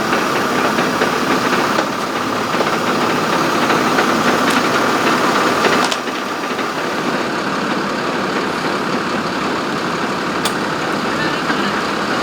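An engine running steadily, with a constant whine over its noise; the level drops a little about six seconds in.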